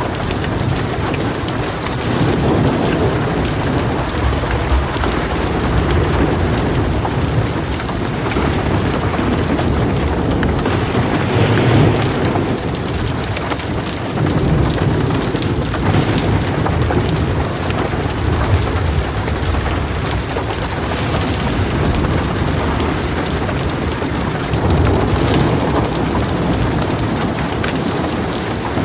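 Heavy rain falling steadily on a metal roof, with low rolls of thunder swelling and fading several times underneath it.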